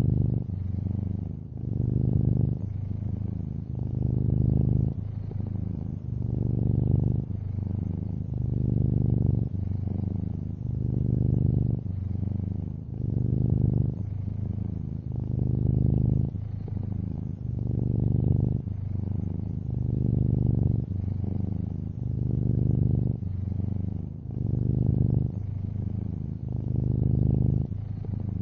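Domestic cat purring close up: a low, steady buzz that swells and fades with each breath, about every two seconds.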